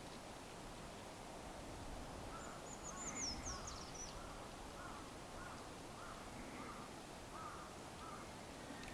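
A bird calling again and again in short, even calls, about two a second, with a brief high twitter from a small bird about two and a half seconds in.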